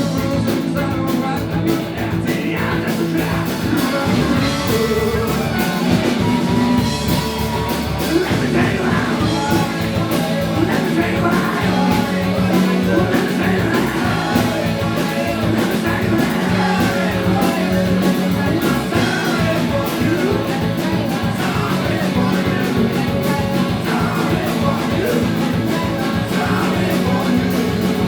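Live rock band playing a song, with drums and guitar under a singing voice.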